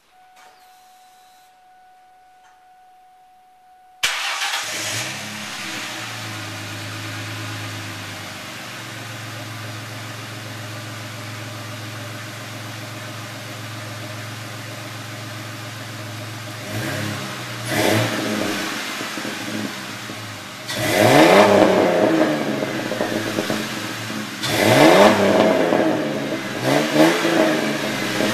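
A faint steady tone, then about four seconds in the 2004 Mustang's 3.9-litre V6 starts with a sudden burst and settles into a steady idle through a dual Flowmaster exhaust. From about seventeen seconds in it is revved about five times, each rev rising and falling back to idle.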